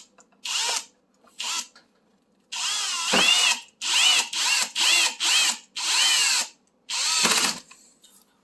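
Power drill driving the screws that hold a stove's control panel, in repeated trigger bursts, its motor pitch rising and falling with each squeeze. Two brief blips come first, then a longer run about two and a half seconds in, then five shorter runs.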